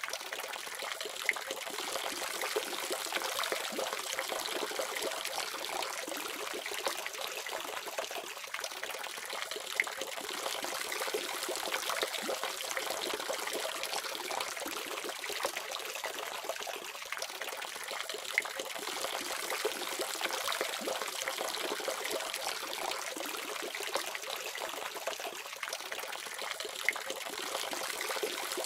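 Water running steadily from a faucet, an even splashing hiss with small droplet ticks now and then.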